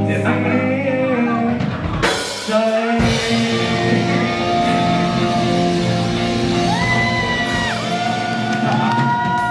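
Live rock band playing in a large room, drum kit and guitar under long held melody notes, with a sharp full-range hit about two seconds in.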